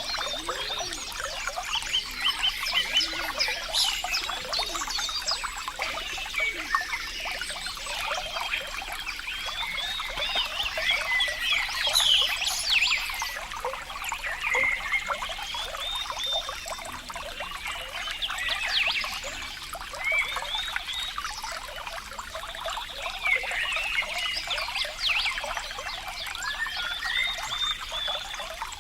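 Running water trickling and bubbling steadily, with many small irregular splashes.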